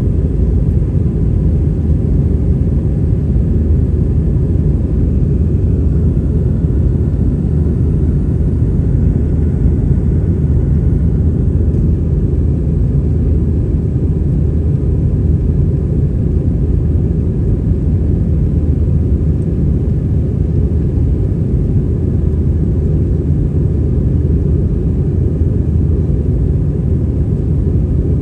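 Steady low rumble of an Airbus A320-200's engines and airflow heard inside the passenger cabin. The level holds even, with faint steady tones above the rumble.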